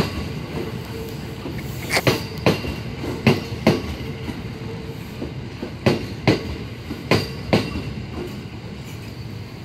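Kintetsu commuter electric train pulling slowly out of the station. Its wheels knock over the rail joints in pairs, one pair for each bogie, over a steady running rumble.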